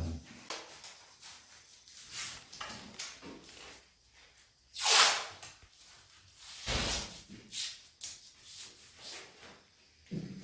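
Plastic sheeting being handled and fixed over a window frame: scattered rustles and knocks, with one loud rasp about five seconds in and a dull thud shortly after.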